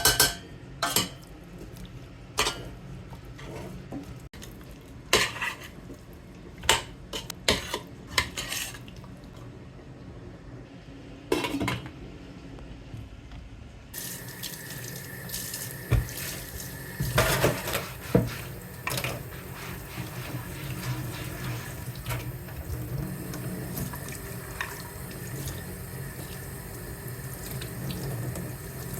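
Dishes and cutlery clinking, then about halfway through a tap comes on and water runs steadily into the sink while dishes clink under it: washing up by hand.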